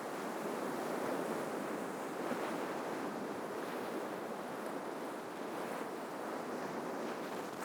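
Ocean waves breaking and washing along the shore in a steady, continuous surf wash.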